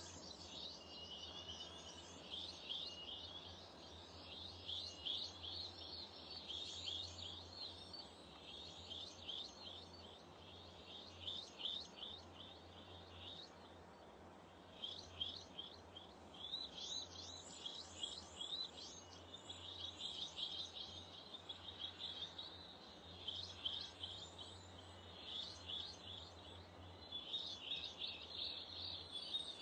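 Small garden birds chirping and calling continuously in many short, rapid notes, thinning out briefly about a third of the way in, over a faint steady low hum.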